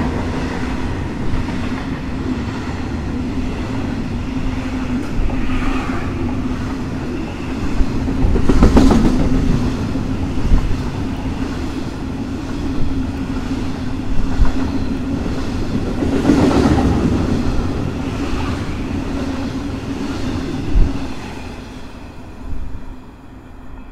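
Freight train passing through a station: a steady rumble of wagons with occasional sharp clicks of wheels on the track, swelling twice and fading away near the end.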